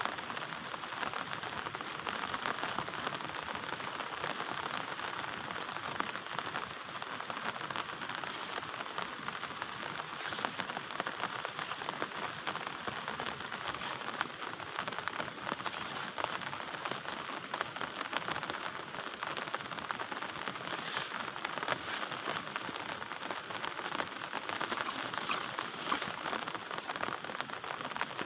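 Heavy rain falling steadily, a dense patter of drops with a few louder drips or strikes scattered through.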